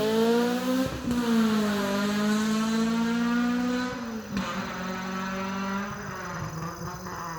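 Toyota engine through a custom-built full catback exhaust, revved and then easing off, its pitch rising slightly at first and then dropping in steps back toward idle as it gets quieter.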